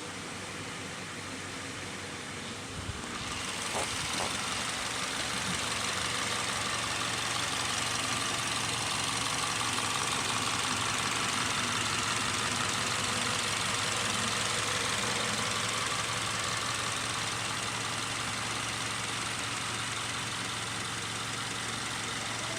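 Subaru Forester's flat-four boxer engine running at a steady idle. It grows louder a few seconds in, then holds steady.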